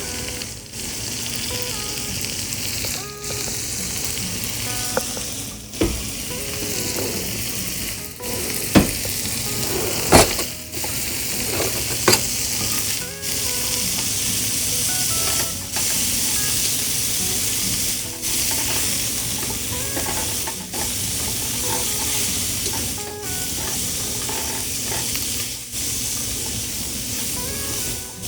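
Fish frying in hot oil: a steady sizzle, with a few sharp clicks of a utensil against the pot.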